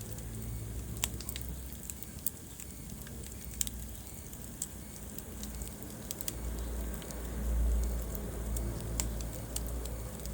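Wood fire crackling in a fireplace: scattered sharp pops and snaps over the low, steady rumble of the flames, which swells a little past the middle.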